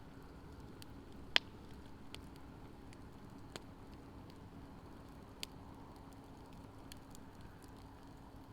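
Wood campfire burning in a fire stand, crackling quietly with scattered pops, one sharper pop about a second and a half in. A faint steady hum runs underneath.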